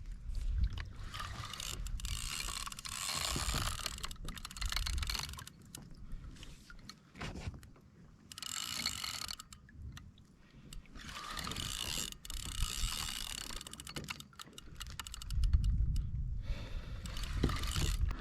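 Fishing reel being cranked in three spells with short pauses, its gears whirring and clicking as a fish is reeled up from a deep drop.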